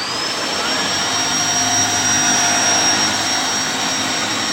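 Shark Lift-Away upright vacuum running, its motor coming up to full speed at the start and then holding a steady high whine over the rush of suction as it picks up pancake mix.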